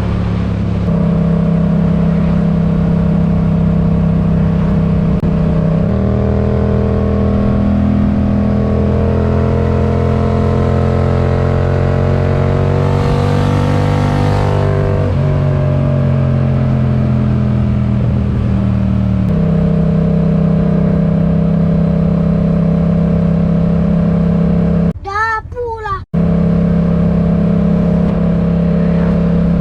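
Yamaha MT-07 parallel-twin with a RoadsItalia aftermarket exhaust running at steady cruising revs, its note stepping to a new pitch twice. About halfway through, a second engine note rises and falls across it. Near the end the engine sound breaks off for about a second while a different wavering, pitched sound plays.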